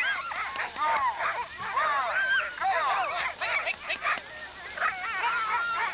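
Many sled dogs barking, yelping and howling together in a constant, excited chorus of overlapping calls.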